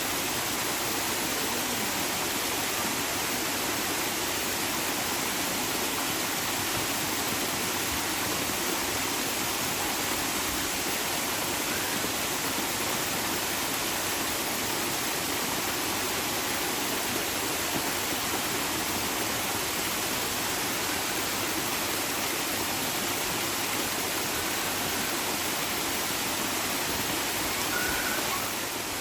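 Running water rushing steadily: an even, unbroken hiss with no separate splashes or drips.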